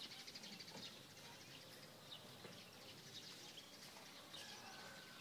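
Faint chirping and rapid trilling of small birds, with a short whistled note near the end.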